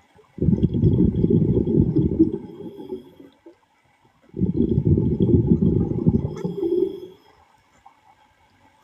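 A diver breathing underwater through a regulator: two long bursts of exhaled bubbles rumbling and gurgling, each about three seconds, with quiet inhalations between them and a third burst starting at the very end.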